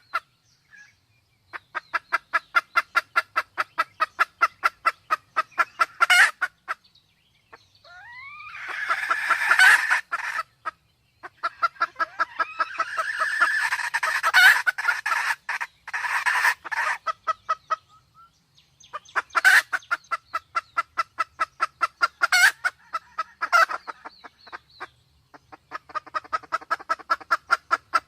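Sumatran red junglefowl calling in long runs of quick clucks, about four or five a second, with a denser, rougher stretch of calling in the middle. The calls are of the kind made by a hen in heat, mixed with a cock's calls.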